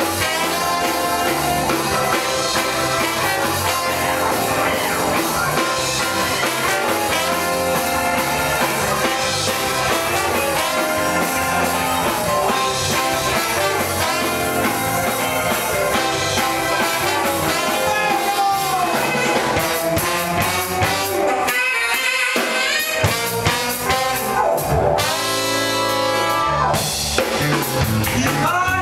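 Funk music playing loudly and steadily, with singing over guitar and drums; the full sound thins out briefly about three-quarters of the way through.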